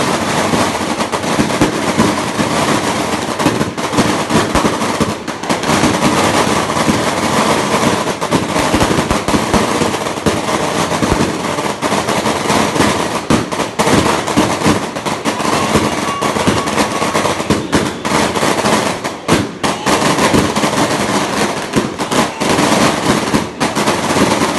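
A long string of firecrackers going off, crackling in rapid, unbroken succession.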